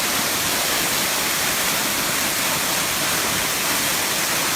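Erawan Waterfall's seventh tier rushing, a steady, even roar of falling water with no letup.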